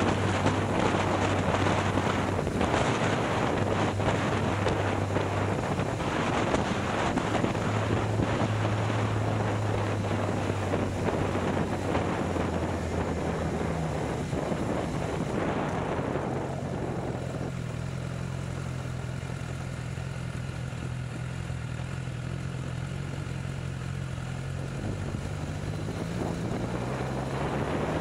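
BMW S1000XR inline-four engine running at a steady low note, with wind rushing over the microphone. About halfway through the wind dies down and the engine note carries on alone. Near the end the pitch rises as it revs up.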